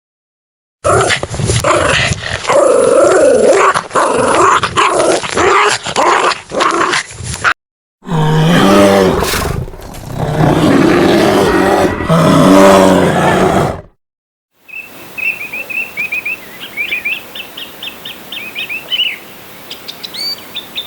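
Animal calls in three cut-together stretches: two loud stretches of calls, the second with low drawn-out pitched cries, then a quick run of short high chirps.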